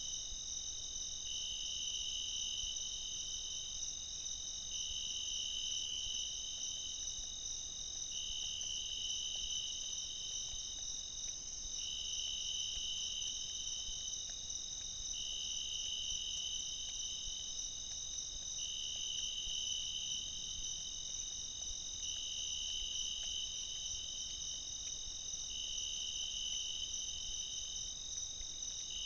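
A chorus of night insects, likely crickets, trilling steadily at several high pitches. One slightly lower trill starts and stops in a regular cycle, sounding for under two seconds about every three and a half seconds.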